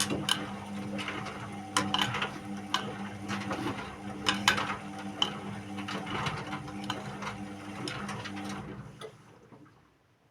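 Indesit WIU81 front-loading washing machine mid-cycle: the drum turns with a steady motor hum and irregular clicks and knocks from the tumbling load, then winds down and stops about nine seconds in.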